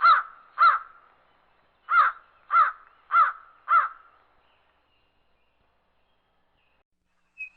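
A crow cawing: two caws, a short pause, then four more evenly spaced caws.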